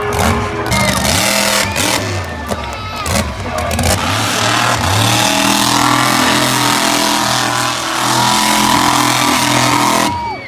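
Monster truck engines revving hard, their pitch rising and falling with the throttle.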